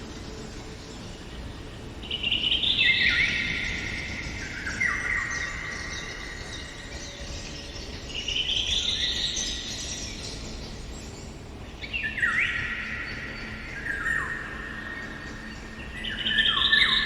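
Songbirds singing: a series of descending song phrases, each a cascade of quick notes falling in pitch over a couple of seconds, recurring every few seconds over faint steady background noise. The loudest phrases come about two seconds in and near the end.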